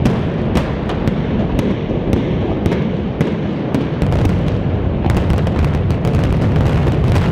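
Demolition implosion of an 11-story office building: a deep, continuous rumble with sharp cracks about twice a second, coming thicker after about five seconds.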